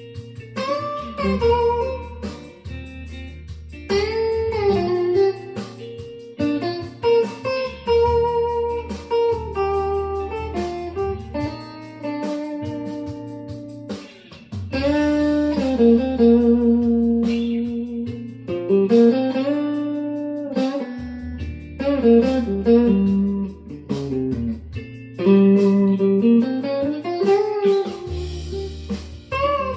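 Guitar improvising a slow blues lead: single-note phrases with string bends that slide up and back down, over a steady bass line that changes every few seconds.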